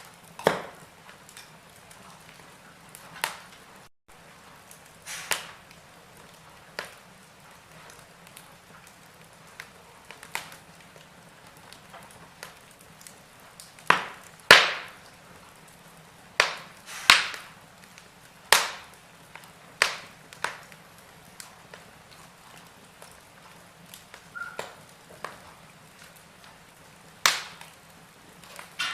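Wood fire in a fireplace crackling, with sharp pops at irregular intervals, a run of louder ones about halfway through.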